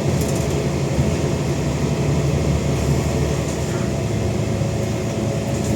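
Scania N94UD double-decker bus's five-cylinder diesel engine running steadily under way with its ZF automatic gearbox: a constant low drone with a thrashy edge, which the uploader calls tired.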